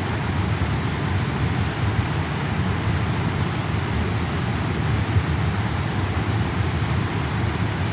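Steady rushing noise of floodwater, even and unbroken, heaviest in the low end.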